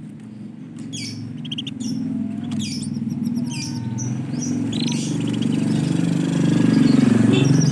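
Canaries giving short scattered chirps over a low engine-like hum that grows louder towards the end and is the loudest sound.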